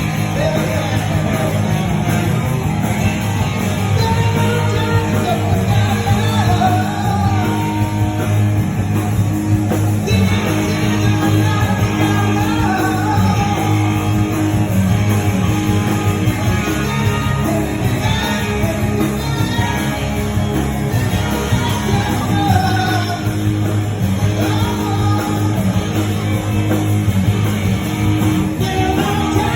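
Live rock and roll band playing with a singer: vocals over electric guitar, bass and drums, loud and steady, in a large room.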